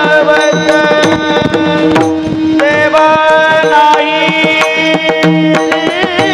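Kirtan devotional music: a hand drum beats a quick, steady run of strokes under held, ornamented melody notes over a continuous drone.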